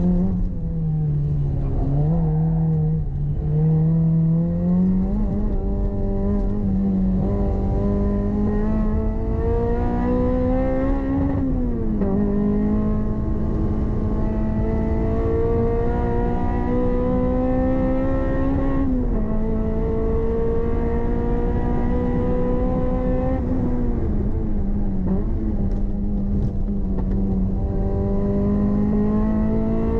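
Toyota MR-S's swapped-in 2ZZ 1.8-litre four-cylinder engine heard from inside the cabin under hard track driving. The revs climb steadily and drop sharply twice, about twelve and nineteen seconds in, at upshifts. They fall away again near twenty-four seconds as the driver eases off.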